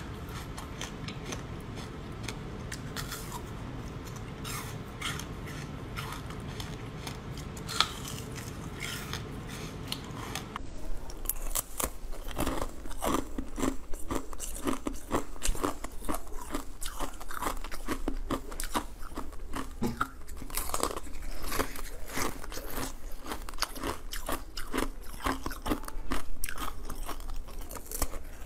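Close-up eating sounds. First, sparse crisp crunches as a frozen block of small cubes is bitten, over a steady low hum. Then, about ten seconds in, dense rapid crunching and crackling as purple jelly filled with small beads is bitten and chewed.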